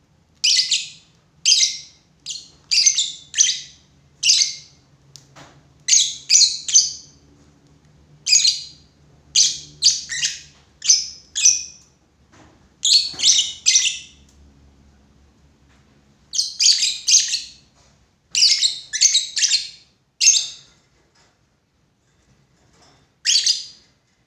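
Lovebirds chirping: sharp, high-pitched chirps in quick runs of two to five, with short pauses between the runs.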